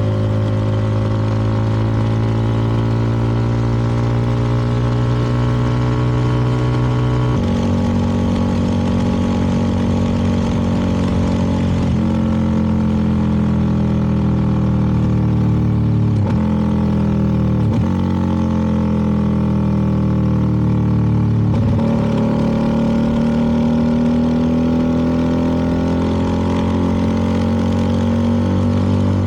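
CFMoto 300NK motorcycle engine running under way. The note drifts in pitch and changes abruptly several times, as with gear shifts.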